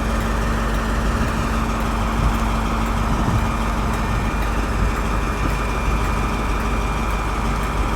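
Freight train hauled by a Class 70 diesel locomotive passing through the station: a steady engine and rail rumble with a constant low hum.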